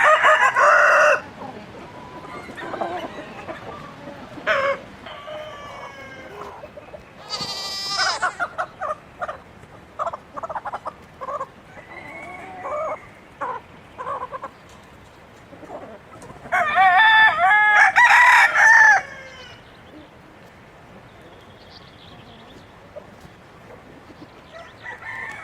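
Chickens: a rooster crows at the start and again, long and loud, past the middle, with hens clucking in short calls between the crows.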